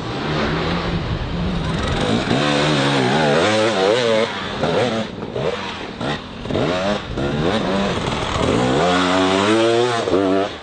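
Motocross bike engine revving, its pitch climbing and dropping several times as the throttle opens and closes.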